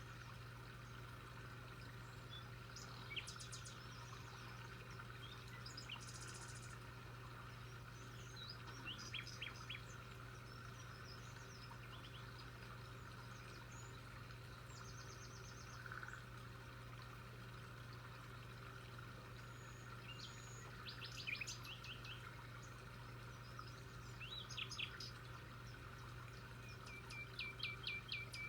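Small birds chirping and giving short trills every few seconds over a steady faint low hum.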